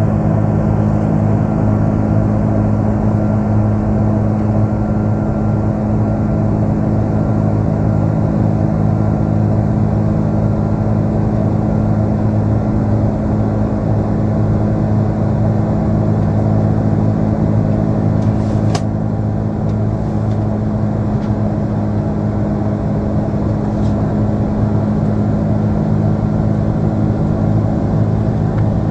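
Steady cabin drone of an Airbus A330-200 airliner on departure, from its Rolls-Royce Trent 700 engines and the airflow: an even roar with a strong low hum. There is a single faint click about two-thirds of the way through.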